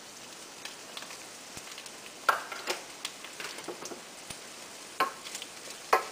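Sliced carrots sizzling gently in hot oil in a stainless steel frying pan, with a few sharp clicks and pops, the loudest about two seconds in, at five seconds and near the end as a wooden spoon starts stirring against the pan.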